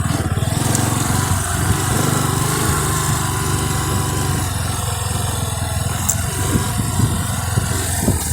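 Bajaj Boxer motorcycle's single-cylinder engine running steadily while riding, its pitch shifting slightly up and down.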